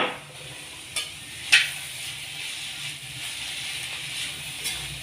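Sliced vegetables and tomato ketchup sizzling steadily in a hot iron kadai, with a few sharp knocks of the stirring spoon against the pan, the loudest about one and a half seconds in.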